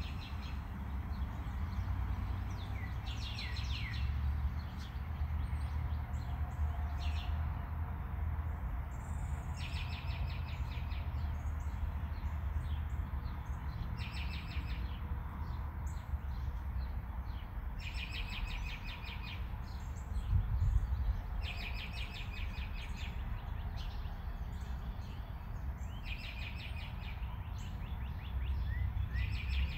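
A small bird repeatedly singing a short, fast trill, about one every four seconds, over a steady low hum.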